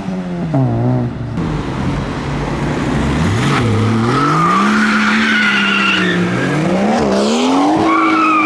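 A modified car's engine revving hard, its pitch swinging up and down, with tyres squealing in high screeches through the middle and again near the end as the car is driven hard away from the meet.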